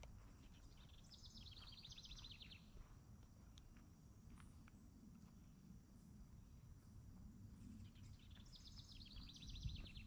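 A songbird singing a short, fast trill of rapidly repeated high notes, twice: once about a second in and again near the end, each lasting about a second and a half. Faint.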